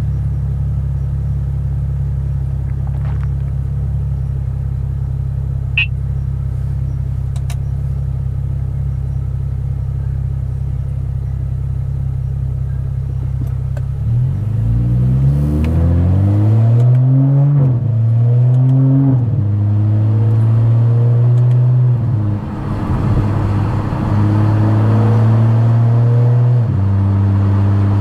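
Tuned BMW F10 535i's turbocharged inline-six through a loud aftermarket exhaust: a steady low rumble, then about halfway through the car accelerates hard, the note rising and dropping through several quick upshifts before settling to a steady drone with a brief lift-off and another shift near the end.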